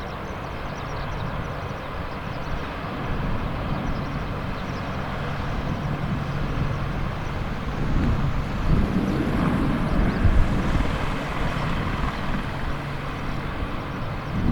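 AH-64D Apache attack helicopter's turbine engines and rotors running with a steady hum and rumble, swelling louder for a few seconds past the middle.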